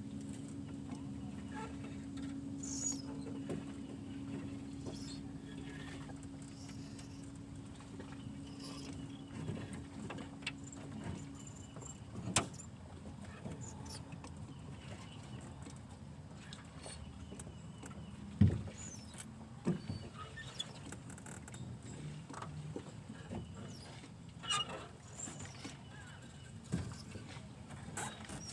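A faint, steady motor hum that fades out about halfway, with scattered clicks and knocks; the sharpest knocks come about twelve and eighteen seconds in.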